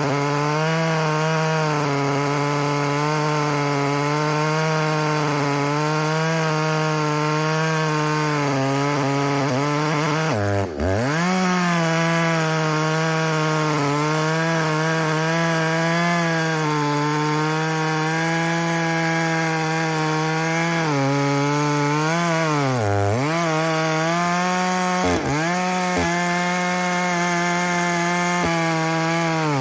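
Echo CS-620P two-stroke chainsaw with a ported dual-port muffler, run hard while a 36-inch bar cuts through a big log. Its steady note under load sags sharply and recovers a few times, around 10, 23 and 29 seconds in.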